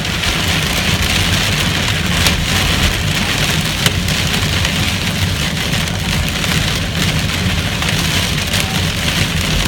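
Hailstones of about an inch pelting a vehicle's roof in a dense, steady din, with a few sharper single hits standing out.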